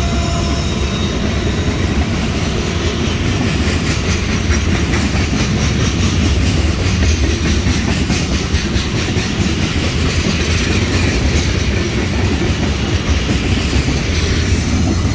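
BNSF freight train rolling past at speed: a steady, loud rumble of wheels on the rails with rapid clickety-clack over the rail joints.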